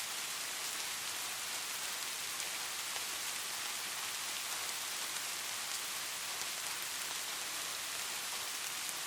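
Light rain falling steadily: an even hiss of many small drops, with faint scattered ticks of individual drops.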